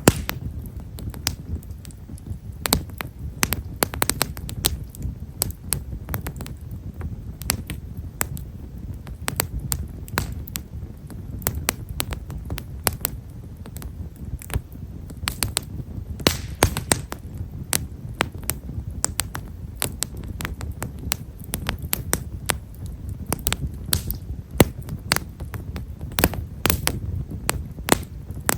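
Bonfire of himeshara (Stewartia monadelpha) firewood crackling: a fine, quick patter of small sharp pops, irregular and continuous, with a few louder snaps. Beneath them is a low, steady rumble.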